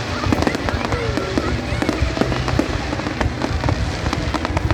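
Aerial fireworks bursting in quick succession, a dense run of bangs and crackles without a break.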